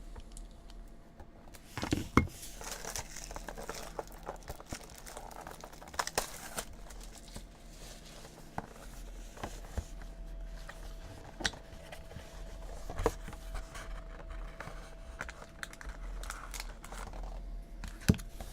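Plastic wrapping crinkling and tearing as a sealed trading-card box is unwrapped and opened, with many short taps and clicks of cardboard being handled.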